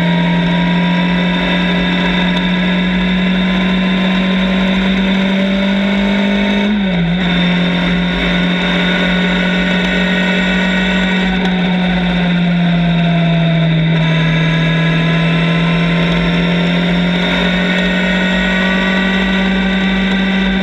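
Motorcycle engine running at a steady cruising speed, with a brief dip in pitch about seven seconds in and a slight easing off a few seconds later.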